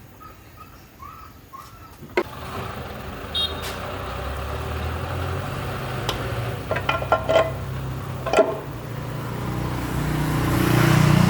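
A tractor engine starts about two seconds in and keeps running with a steady low hum, with a few metallic clicks and clanks, and grows louder near the end.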